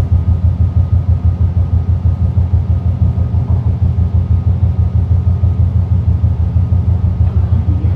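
Inside a BART Fleet of the Future train car running at speed: a loud, steady low rumble from the wheels and running gear that pulses quickly, with a faint steady whine above it.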